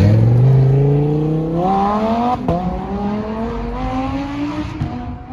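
A sports car engine accelerating hard as the car pulls away. The pitch climbs, drops at an upshift about two and a half seconds in, then climbs again while it grows fainter near the end.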